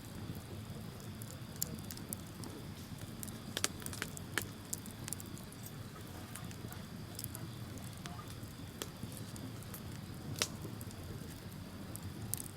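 Campfire burning with a low steady rush of flame and scattered sharp crackles and pops from the burning wood. The loudest pops come about three and a half seconds in and near the end.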